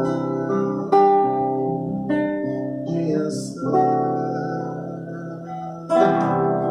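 Acoustic guitar (violão) strumming a few chords, each struck once and left to ring and fade, with new chords about one, two, three and a half and six seconds in.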